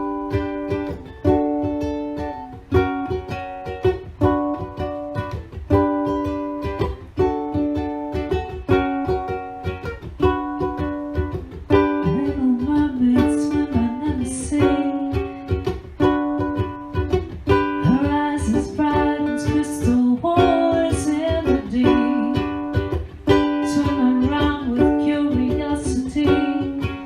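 Ukulele strummed in a steady chord rhythm, with a voice singing a melody over it from about halfway in.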